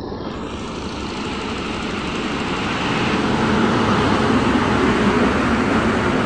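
Indian Railways WAP-7 electric locomotive and its passenger coaches passing along a station platform. The running noise grows louder over the first three or four seconds as the locomotive comes alongside, then holds as a steady rumble of the coaches' wheels on the rails.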